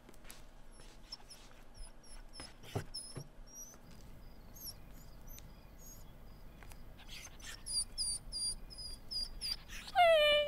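Repeated short, high-pitched chirps, two or three a second, over a quiet background with a few soft knocks. Near the end comes one loud squeal that drops in pitch and then holds for half a second.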